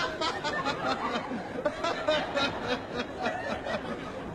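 Studio audience laughing: many people chuckling and laughing together without a break.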